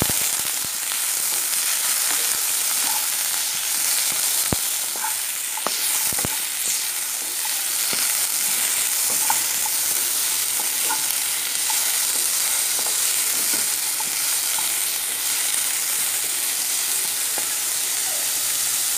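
Raw papaya cubes sizzling steadily in a little oil in a non-stick pan as they are stirred with a wooden spatula, with a few light knocks of the spatula against the pan.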